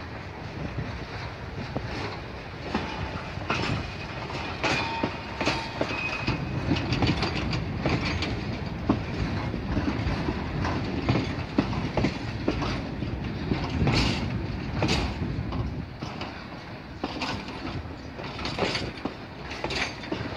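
Freight train of hopper wagons rolling through a yard's points and crossings. A steady low rumble runs under irregular clicks and knocks of the wheels over rail joints, with a couple of short, faint wheel squeals about five seconds in.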